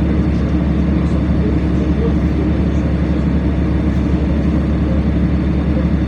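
Steady engine drone and cabin noise inside a LiAZ-5292.65 city bus, heavy and low-pitched, with no change in pitch or level.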